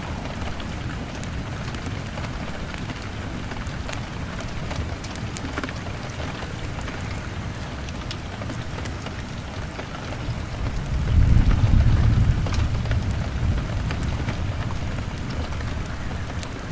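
Steady rain on a window, with a wood fire crackling in scattered sharp pops. About eleven seconds in, a low rumble of thunder swells, then fades.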